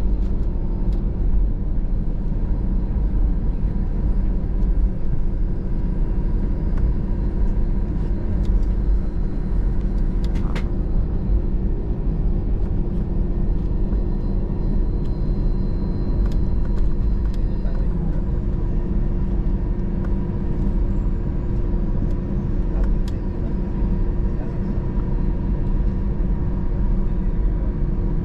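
Airbus A320 cabin noise during taxi: a steady low rumble of the jet engines at idle and the airframe rolling on the ground, with a steady hum and a few faint clicks.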